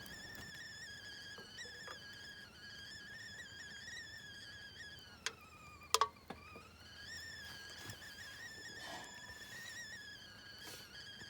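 Campfire wood whistling as steam and sap escape from a burning log: a thin, wavering whistle that sags in pitch around the middle and recovers, with a few sharp crackles from the fire near the middle.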